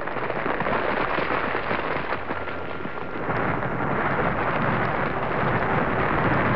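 Thunder: a long, crackling roll that stays loud throughout.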